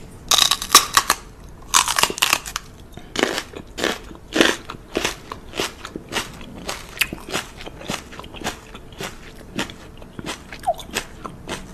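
Crunchy chewing close to the microphone: sharp irregular crunches about twice a second, loudest in the first couple of seconds.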